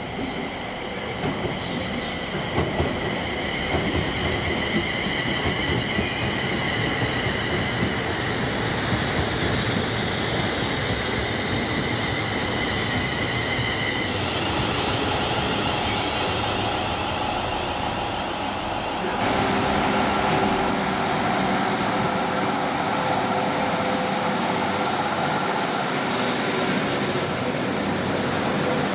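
TransPennine Express Class 350 Desiro electric multiple unit passing on the main line, wheels running on the rails under a steady high whine. About two-thirds through it cuts to a Northern diesel multiple unit moving along the platform, its running sound carrying several steady tones.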